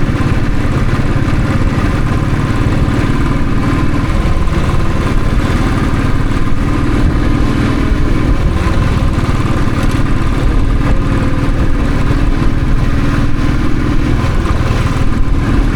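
Royal Enfield Thunderbird's single-cylinder engine running steadily under way, with an even rush of noise over it.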